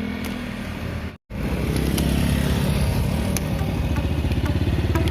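An engine running with a rapid low pulsing. It breaks off briefly about a second in, then carries on steadily and slightly louder.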